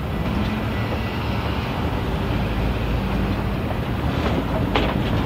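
Diesel locomotive of an approaching grain train, a steady low rumble mixed with wind buffeting the microphone. About four seconds in, a pickup truck passes close by and a few sharp clicks are heard.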